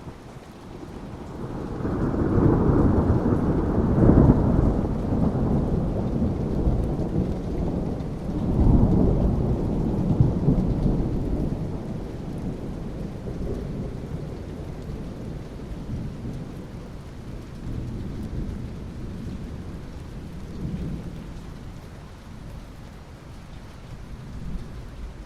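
A long roll of thunder over steady rain. The rumble builds about two seconds in, peaks twice, and slowly fades away.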